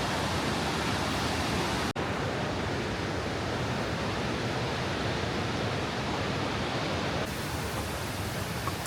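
Waterfall and river cascades rushing: a steady, even wash of falling water, broken by a momentary dropout about two seconds in.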